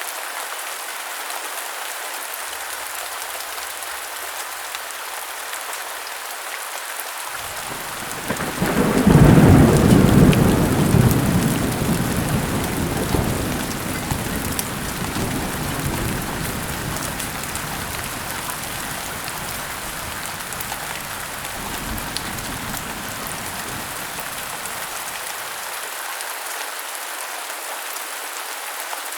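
Heavy rain falling steadily, with a peal of thunder breaking about seven seconds in, loudest a couple of seconds later, then rumbling away and fading over the next fifteen seconds or so.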